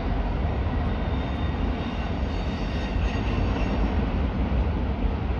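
Freight train of autorack cars rolling past, a steady rumble of wheels on rail. Faint high-pitched wheel squeal on the curve comes in about two seconds in and fades about four seconds in.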